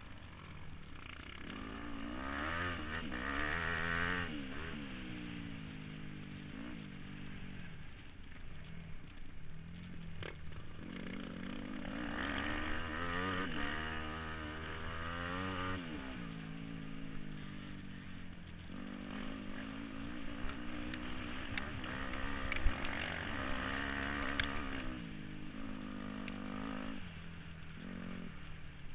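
Motocross bikes running on a dirt track, engine pitch rising and falling with throttle and gear changes. The bikes grow louder three times as they pass close, and there is one sharp crack about two-thirds of the way through.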